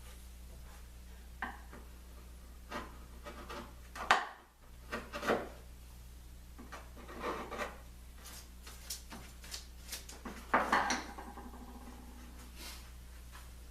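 Scattered knocks, clicks and rubbing of hands and tools working on glued-up wooden table parts, the loudest knocks about four seconds in and near eleven seconds, over a steady low hum.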